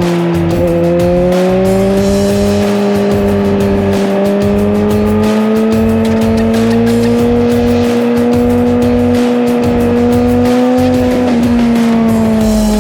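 Suzuki GSX-R1000 inline-four engine and exhaust under way at fairly steady revs. The pitch climbs slowly, then eases off about eleven seconds in. Wind buffets the microphone underneath.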